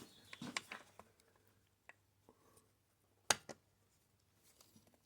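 Faint handling sounds of an old rubber fuel line being worked onto its fitting on a chainsaw: small scattered clicks and rubbing, with one sharp click about three seconds in.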